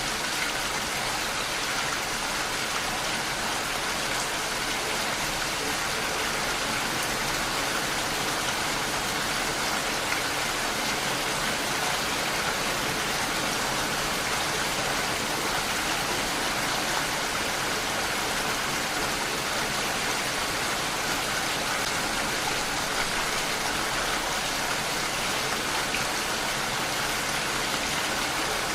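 Steady rain falling without a break, an even hiss.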